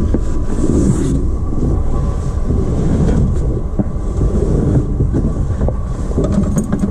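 1955 Ford Fairlane engine running just after starting, a steady low rumble, with a few sharp clicks near the end.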